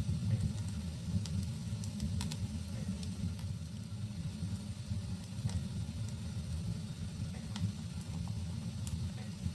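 Wood fire burning in a fireplace: a steady low rumble of flames with scattered sharp crackles and pops, a handful over several seconds.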